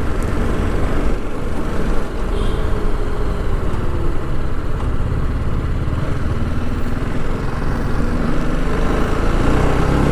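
TVS Apache RR 310's single-cylinder engine running steadily on the move, under a constant haze of wind and road noise.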